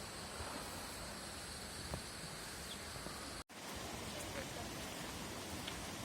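Forest ambience: a steady, high-pitched insect drone over a faint hiss, with a few soft clicks. Just after halfway the sound cuts out for an instant, and the hiss carries on without the insect tones.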